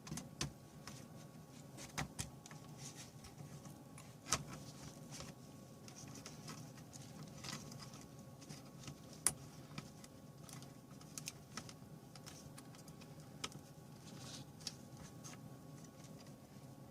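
Irregular light clicks and taps of small laptop parts being handled, a dozen or so scattered sharp ticks over a faint steady hum with a thin high tone.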